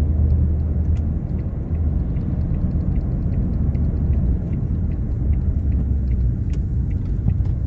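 Ford Fiesta Mk7 on the move, heard from inside the cabin: a steady low rumble of engine and road noise.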